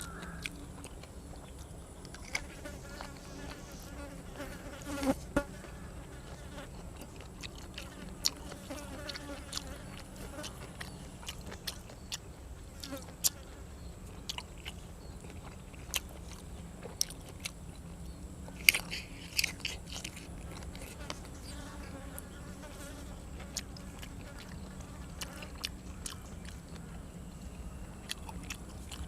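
A fly buzzing close by on and off, over steady chewing with scattered crunchy bites. The food is grilled cuttlefish and raw vegetables.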